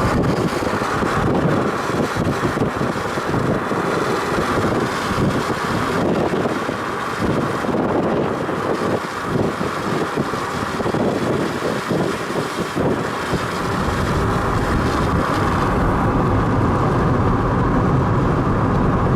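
Storm wind buffeting the microphone: a loud, continuous rushing noise that is gusty at first and turns steadier about two-thirds of the way in.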